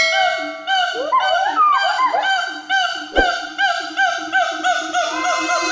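Siamangs calling in a series of short, rising-and-falling hoots repeated about twice a second, with several voices overlapping in rising glides about a second in and the calls coming faster near the end. One sharp click about three seconds in.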